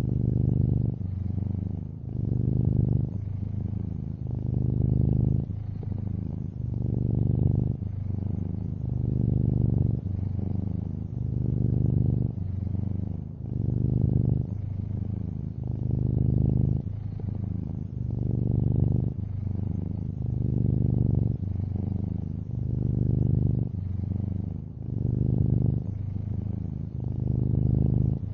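Long-haired orange tabby cat purring close up, a low steady buzz that swells and eases with each breath, about every two seconds.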